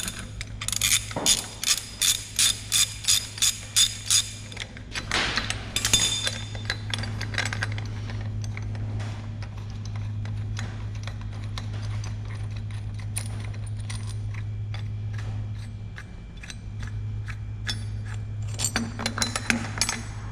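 Hand ratchet wrench being worked in quick strokes, a burst of clicking about two or three times a second for a few seconds, followed by scattered metal clinks of tools and parts. A steady low hum runs underneath.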